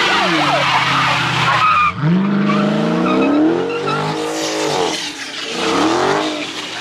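Car engine revving hard, its pitch climbing and falling several times with a brief drop about two seconds in, over tires skidding on pavement: a car doing donuts or burnouts in a street-takeover pit.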